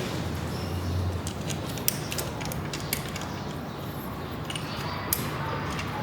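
Scattered sharp metallic clicks and clinks of hand tools working on a motorcycle engine, over a steady low hum.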